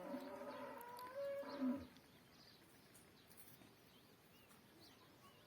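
A cow lowing once, a long moo of about two seconds, followed by faint bird chirps.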